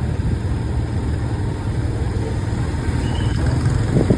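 Motorcycle riding along a bumpy highway: a steady low rumble of engine, wind and road noise, swelling louder near the end.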